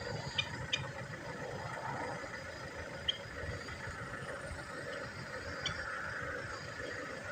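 Steady outdoor background with a low rumble, broken by a few brief, high chirps scattered through it.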